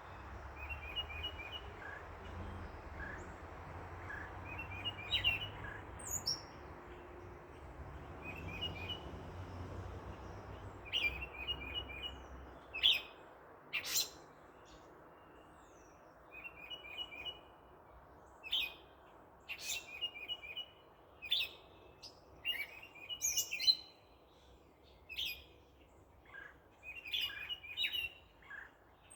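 Backyard birds chirping: a short phrase of quick repeated notes every couple of seconds, with sharp high chirps in between that grow busier in the second half. A low traffic rumble underneath fades out about halfway through.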